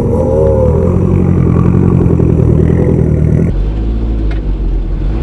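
Lancia Delta Integrale Evo rally car's turbocharged four-cylinder engine running loud, with a brief rev early on. The sound changes suddenly about three and a half seconds in, the upper hiss dropping away.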